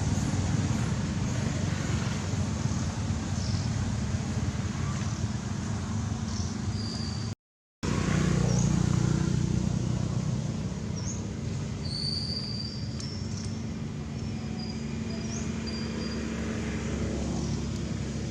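Steady low rumble of road traffic, with scattered short high chirps over it. The sound cuts out completely for a moment about seven seconds in.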